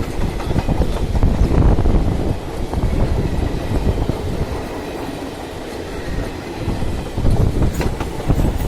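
Magadh Express passenger train running past at speed, its wheels rumbling and clattering over the rail joints in an irregular stream of knocks. The sound eases a little midway, then swells again near the end.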